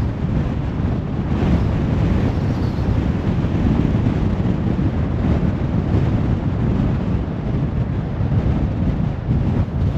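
Steady road noise from a car driving along: a low tyre and wind rumble.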